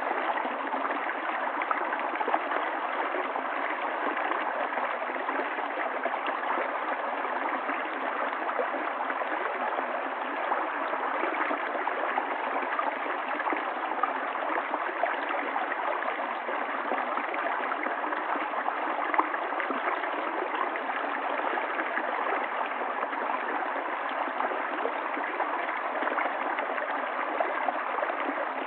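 River water flowing steadily over stones, babbling and gurgling.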